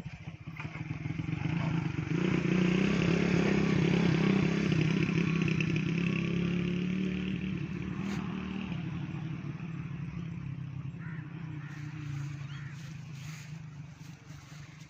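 Motorcycle engine running, growing louder over the first two seconds, holding steady for several seconds, then slowly fading away.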